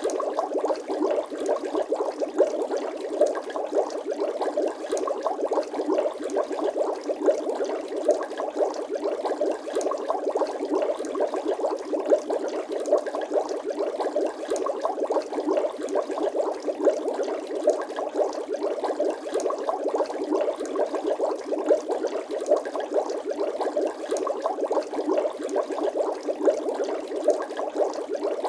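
Bubbling sound effect: a steady, dense stream of small liquid bubble pops, like water bubbling and gurgling continuously.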